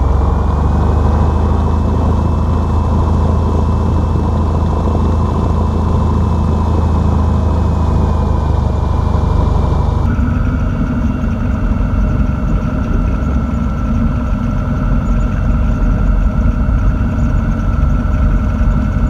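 Cessna 182's piston engine and propeller running steadily, heard from the cockpit just after takeoff clearance. About ten seconds in, the engine sound changes abruptly to a different, noisier note.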